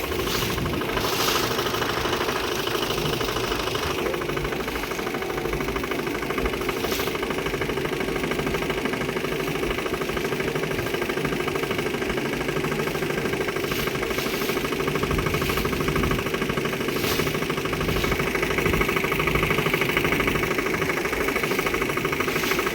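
Motorboat engine running steadily, a constant mechanical hum with a few brief clicks over it.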